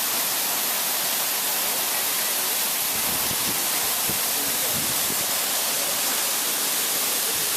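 Steady, even hiss of falling water, heavy rain or rushing falls, with no break.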